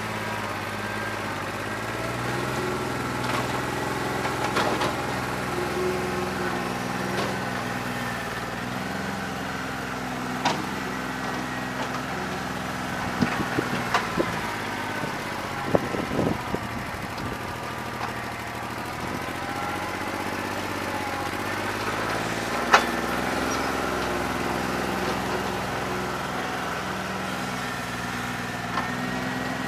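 New Holland 1320 tractor's three-cylinder diesel engine running with a bad injector, one cylinder only partly firing; its speed dips and picks up again a few times. Several sharp knocks, the loudest about 23 seconds in.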